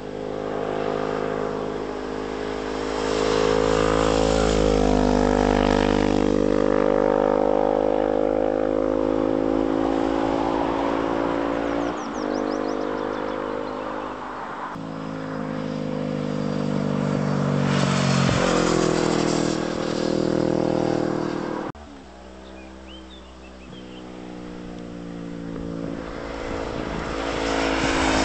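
Honda motorcycle engines revving through a bend, the pitch climbing and dropping with gear changes as the bikes approach and pass. The sound cuts off suddenly about three-quarters of the way through, then builds again as another bike comes near.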